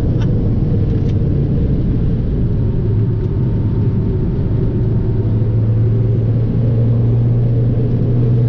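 Fiat 500 Abarth's turbocharged four-cylinder engine running at steady revs under way, over a dense rumble of tyre and road noise. The engine note grows stronger in the second half.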